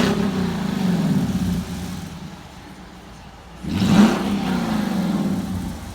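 2017 Dodge Durango R/T's 5.7-litre Hemi V8 running through an exhaust with the rear mufflers and resonators cut out, revved twice, once at the start and again about four seconds in, each time dropping back to a steady idle.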